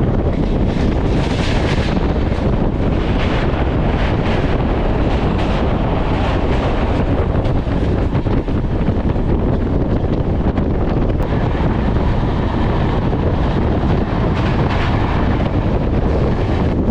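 Wind buffeting the phone's microphone over the steady rumble of a moving passenger train, the rush swelling and easing every second or so.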